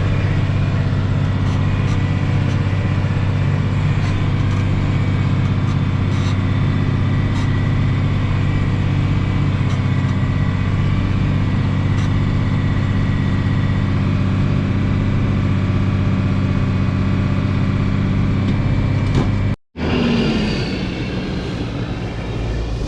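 Farm tractor engine running steadily while mowing hay, a constant hum with even engine tones. Near the end it cuts off suddenly and a different engine sound follows, its pitch falling.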